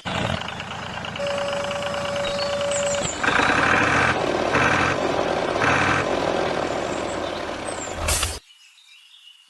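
Truck engine sound effect running steadily, with three even beeps about a second apart, like a truck's reversing alarm; it cuts off abruptly shortly before the end.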